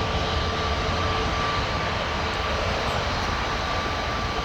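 Airliner engines running steadily, an even rushing sound with a thin steady whine over it.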